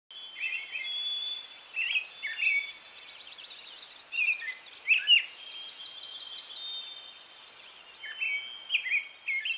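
Birds singing: a mix of short sweeping chirps and long high whistled notes, with quick trills, over a steady hiss of background noise. The sharpest chirps come about five seconds in.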